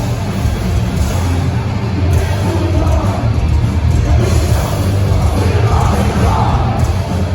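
A live hardcore band plays a song loud, with heavy bass and singing.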